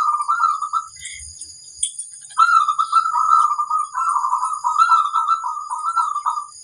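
Zebra dove (perkutut) cooing: a short burst of coos at the start, then after a pause of about a second and a half, a long run of quick, rolling coo notes lasting about four seconds.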